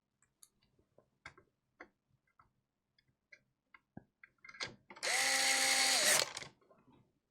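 Light clicks and taps of small tools on a workbench, then a small power tool's motor runs for about a second with a steady whine over a hiss and cuts off.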